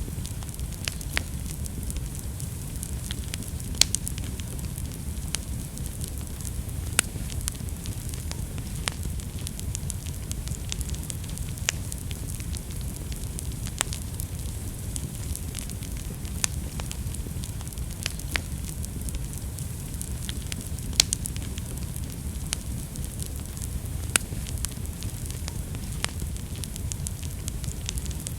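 Wood fire burning in a fireplace: a steady low rumble and hiss of flames with frequent sharp, irregular crackles and pops.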